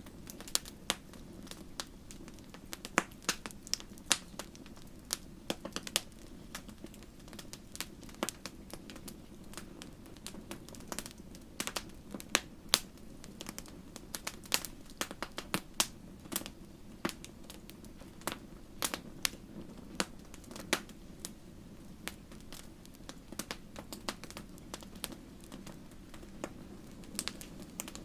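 Wood fire crackling: irregular sharp pops and snaps, several a second, over a low steady rush of the flames.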